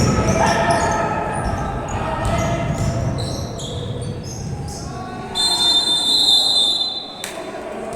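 Basketball game sounds: the ball bouncing and short high squeaks from the court, with voices. From about five seconds in, a steady high tone holds for about two seconds.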